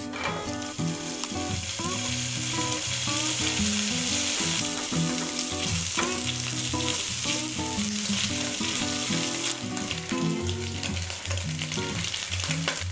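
Cubes of ham sizzling in hot oil in a nonstick frying pan, starting the moment they go in, with a silicone spatula clicking and scraping as it turns them.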